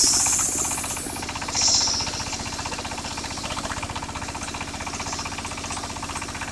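Portable circular sawmill running: its engine keeps up a steady, rapid, even beat. A loud high hiss comes at the start and again, shorter, about a second and a half in, as the blade bites into the wood.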